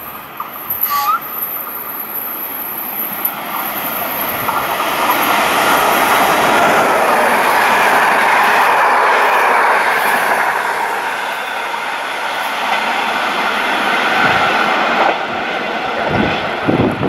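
Intercity passenger train hauled by an FS E.464 electric locomotive passing close by at speed: the rushing rumble of wheels on rails and rolling coaches swells to its loudest in the middle as the carriages go past, then eases as the train draws away.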